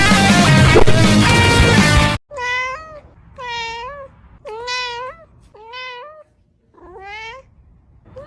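Loud guitar music cuts off about two seconds in, followed by a domestic cat meowing five times, about once a second, the last meow rising in pitch.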